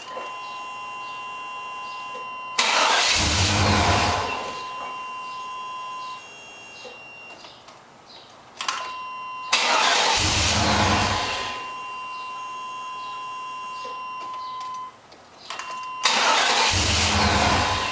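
Chevrolet Tahoe's starter cranking the engine in three short tries, about six seconds apart, without it starting. A steady high electronic warning tone from the dash sounds between the tries.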